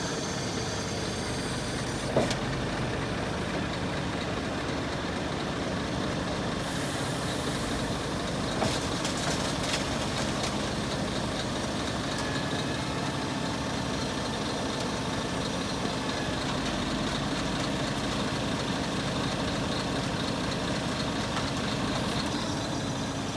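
Scania R480 concrete mixer truck's diesel engine idling steadily, with a short sharp knock about two seconds in.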